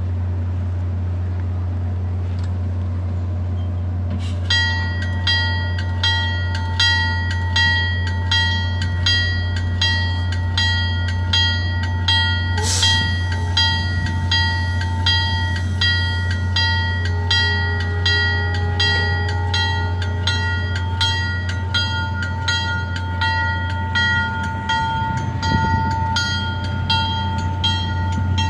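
Standing commuter train's diesel locomotive idling with a steady low hum. A few seconds in, a bell starts ringing steadily at about one and a half strikes a second, with a single sharp bang a little under halfway through. Near the end the rumble rises as the train starts to roll.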